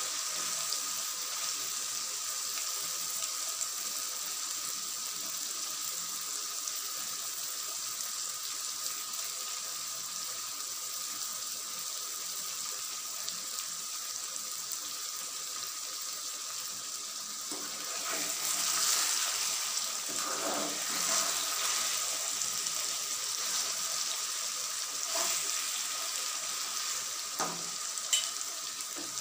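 Masala fish curry sizzling in a pan on the stove, a steady hiss that swells for a few seconds past the middle. Near the end a metal spoon stirs the curry and clinks once against the pan.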